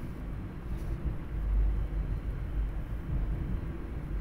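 Steady low rumble inside a SEPTA Regional Rail passenger car, swelling slightly about a second and a half in.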